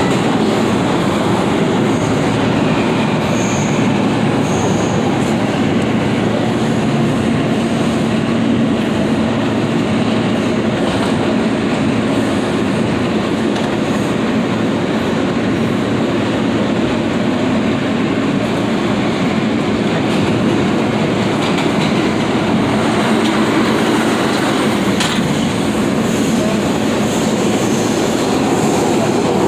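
New York City subway F train running between stations, heard from inside the car: a steady rumble and rattle of wheels on the track.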